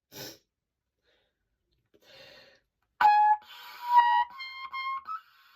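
Pocket cornet played in its high register: a breath, then about three seconds in a sharp attack and a few short notes stepping upward, reaching for a high E that the player cannot hit.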